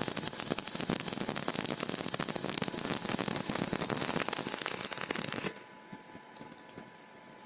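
Stick (arc) welding with a 6013 electrode: the arc gives a steady, dense crackle that cuts off suddenly about five and a half seconds in, as the arc is broken.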